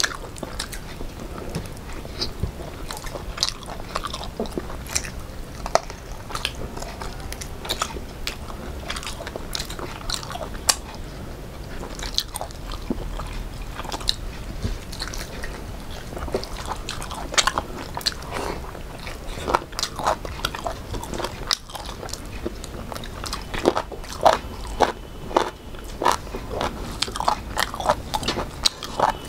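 Close-miked chewing and biting of two people eating rice with fried fish and chicken by hand: a steady stream of short wet clicks and crunches that comes thicker and louder near the end.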